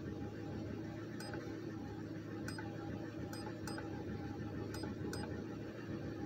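A 2007 Crown Victoria Police Interceptor's 4.6-litre V8 idling, heard as a steady low hum from inside the cabin, with about six sharp ticks at irregular spacing. The engine is misfiring on cylinder 3 (code P0303) despite new ignition coils, and the owner suspects the spark plug.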